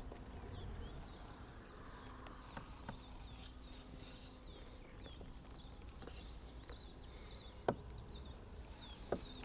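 Quiet outdoor ambience of faint, rapid high chirping from small animals, with two sharp knocks near the end.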